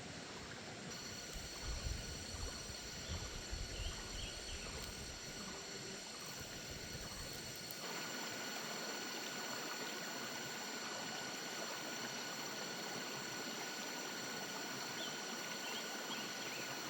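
Steady rushing noise of running water. Low rumbling gusts through the first half stop about halfway in, and a couple of faint chirps come through.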